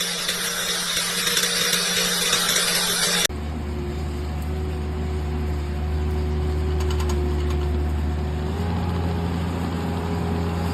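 A loud hiss for about three seconds, cut off abruptly, then a small two-stroke chainsaw engine running steadily with a low, even hum that shifts slightly near the end.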